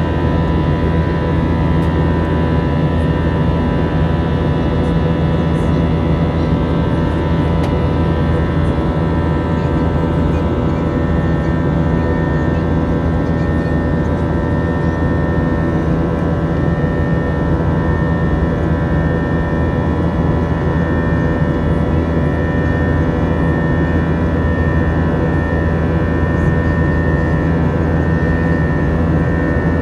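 Airbus A321 jet engines and airflow heard inside the passenger cabin in flight: a steady, unchanging rumble with several constant whining tones held over it.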